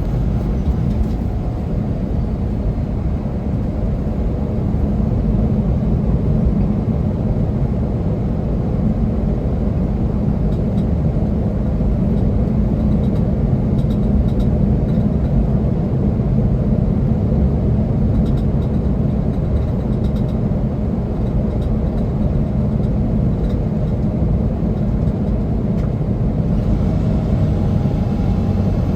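Semi truck's engine and road noise: a steady, unbroken low rumble.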